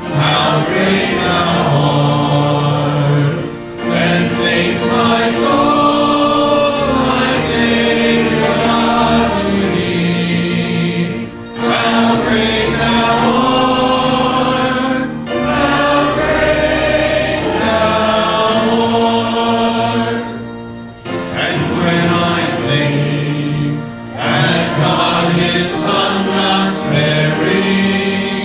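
Choir or congregation singing a hymn in long held phrases, with short breaks between lines.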